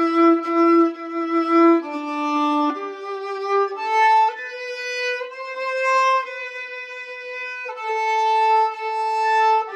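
Solo violin playing a slow melody with long bowed notes, each held for a second or two before stepping to the next.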